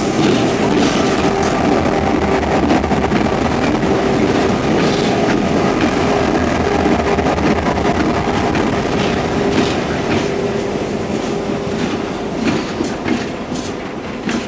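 A train passing close by on the next track: its diesel locomotives run by with a steady hum and rumble, then the passenger carriages clatter past on their wheels. The sound eases off over the last few seconds, with a few sharp wheel knocks near the end.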